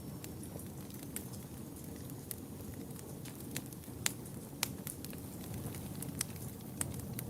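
Wood fire burning in a fireplace: a steady low rumble of flames with sharp crackles and pops scattered through. The loudest two pops come a little past the middle.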